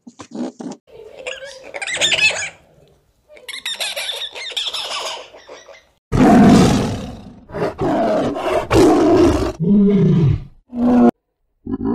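Animal calls: short, high-pitched squeaky calls for the first half, then loud, deep, drawn-out bellowing calls from about six seconds in, their pitch bending down and up near the end.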